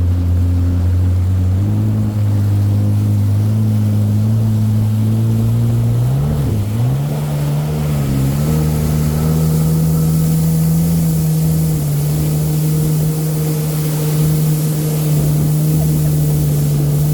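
Jet ski engine running under way. Its note steps up about two seconds in, dips twice briefly near the middle, then holds higher and steady as it speeds along.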